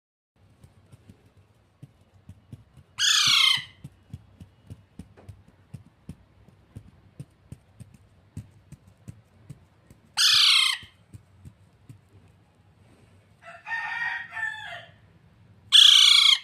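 Pet parrot giving three loud, short calls several seconds apart, each bending in pitch, with a softer, lower call between the last two. Faint ticking runs underneath.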